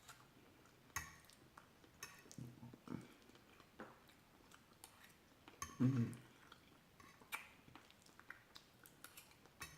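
Close-miked chewing and mouth sounds of someone eating chicken mole enchiladas, with scattered soft clicks and clinks of cutlery on a plate.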